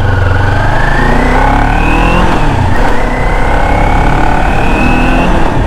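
Kawasaki Ninja 400 parallel-twin engine accelerating: its pitch climbs for about two seconds, drops briefly, then climbs again more slowly.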